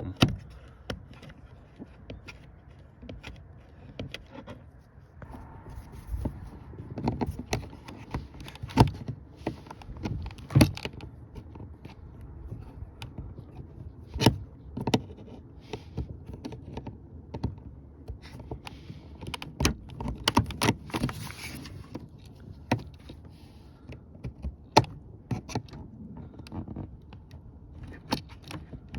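Irregular plastic clicks, taps and knocks from handling the removed interior door panel and inside handle mechanism of a 2015 Subaru Outback rear door, as the cable's ball end is refitted to the handle.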